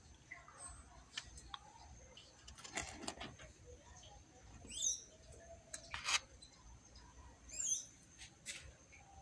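A bird calling twice, each call a short note sweeping down in pitch, about three seconds apart, over a faint steady high-pitched tone. A few sharp clicks and a brief rustle about three seconds in.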